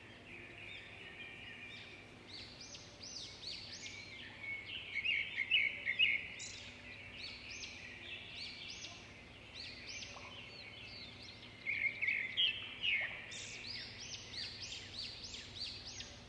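A flock of small songbirds chirping and calling, many quick overlapping chirps coming in busy bursts.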